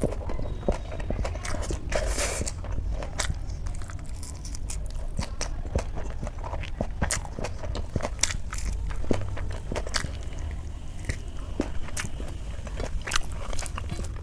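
Close-miked eating: chewing and biting with many small sharp clicks and crunches of food in the mouth, over a steady low hum.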